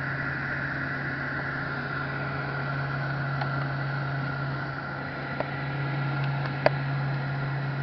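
İhlas Aura Cleanmax cleaning machine (vacuum and carpet washer) running with a steady motor hum. Two short clicks come in the second half.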